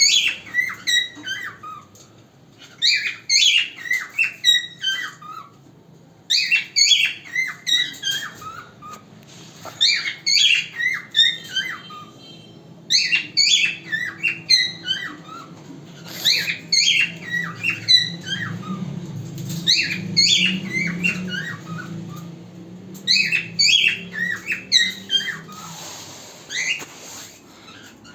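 A cockatiel singing its natural song: repeated phrases of quick whistled chirps and warbles, each burst lasting two or three seconds with short pauses between.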